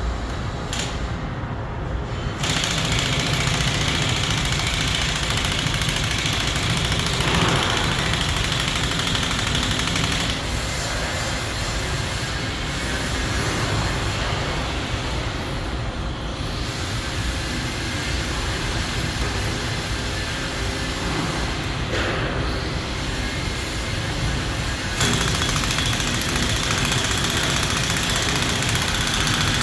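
Continuous loud mechanical noise with a hiss across the whole range. It steps up abruptly about two seconds in and again near the end.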